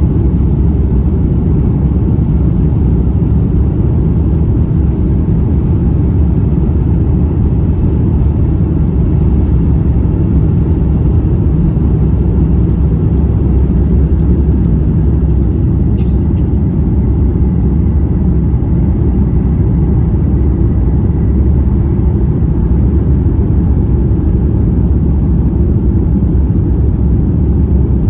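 Steady, loud low rumble inside the cabin of an Airbus A350-900, from its Rolls-Royce Trent XWB engines and airflow, with a faint click about halfway through.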